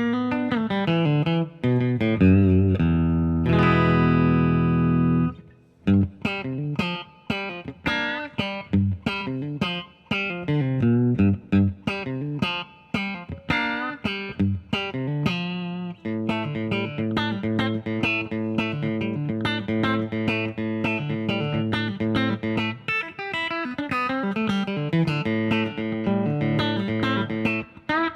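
Harley Benton JA-60 Jazzmaster-style electric guitar played clean on its bridge single-coil pickup, a twangy run of picked notes with a chord left to ring a few seconds in.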